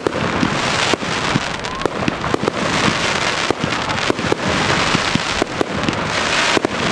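Large aerial fireworks display: a dense continuous crackle with many sharp bangs from bursting shells.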